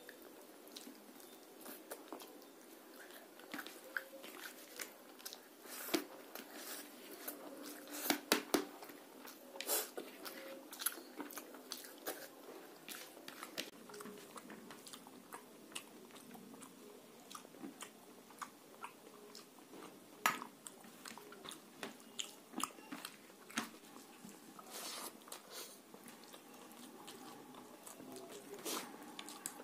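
Close-miked mouth sounds of a man eating rice mixed with fish curry by hand: wet chewing with irregular lip smacks and clicks, louder clusters about eight seconds in and again around twenty seconds.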